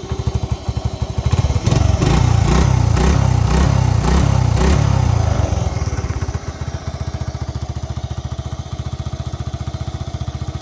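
1985 Honda TRX70's small air-cooled single-cylinder four-stroke engine running shortly after a cold start. It idles, is revved up louder for about four seconds beginning a second or so in, then drops back to a steady idle.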